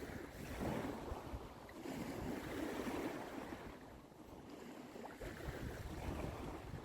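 Waves washing up on a beach in slow swells, with wind rumbling on the microphone.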